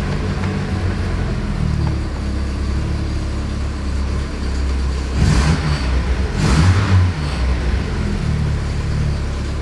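Saab 90 engine running unevenly, freshly started after a Stromberg carburettor rebuild, with louder surges in engine speed about five and six and a half seconds in. It is running lean: it needs a lot of choke to keep going and is not happy without it.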